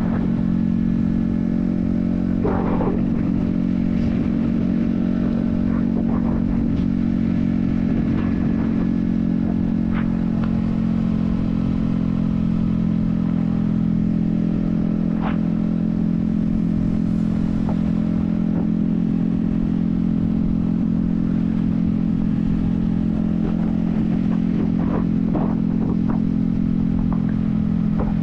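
Yamaha XSR155's 155cc single-cylinder engine running at a steady cruise, its pitch held constant, heard from a helmet-mounted camera. A few light clicks come through here and there.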